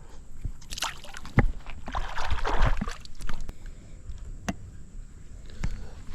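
Creek water splashing and sloshing as a small smallmouth bass is released back into the water, with a few sharp clicks.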